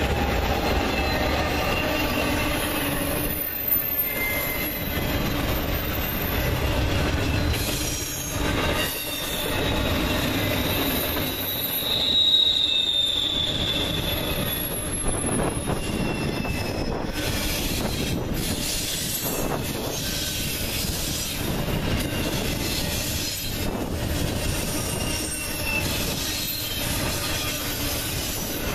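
Intermodal freight cars, trailers on flatcars and double-stack well cars, rolling past on a curve with a steady rumble of wheels on rail. High-pitched wheel-flange squeal comes and goes over the top, loudest about twelve seconds in.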